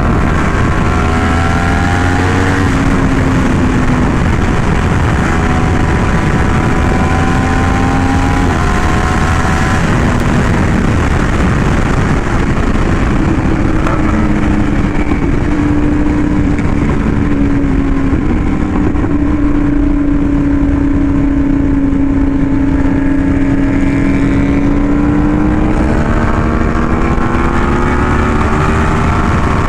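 Yamaha R1M's crossplane inline-four, breathing through an SC Project exhaust, running steadily at highway speed; its pitch drifts up and down gently as the throttle varies.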